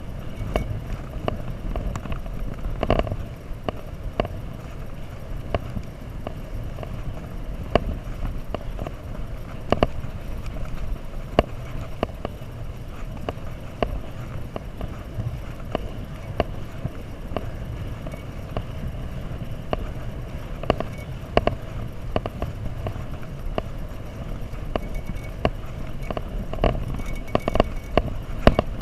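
Rumble of riding on a bicycle, heard through a mounted action camera: steady wind and road noise with irregular clicks and knocks from the frame rattling over bumps.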